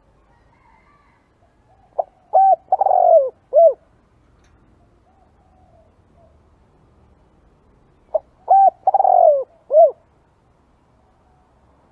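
Spotted dove calling: two cooing phrases about six seconds apart. Each is a short note followed by three coos, the middle coo longer and falling in pitch.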